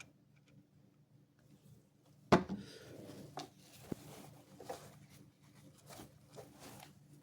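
Handling noises while working on a projector: a sharp knock about two seconds in, then light clicks, taps and rustling.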